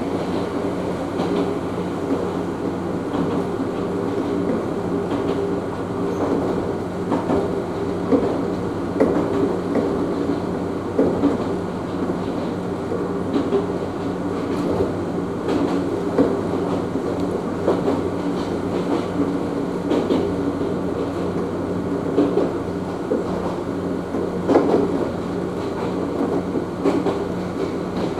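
Electric train running along the line, heard from inside the car: a steady motor and running hum with wheels clicking irregularly over rail joints.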